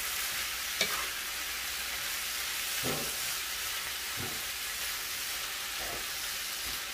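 Chicken strips, bell peppers and onion sizzling in a nonstick skillet with a steady hiss, while a wooden spatula stirs and scrapes through them about four times.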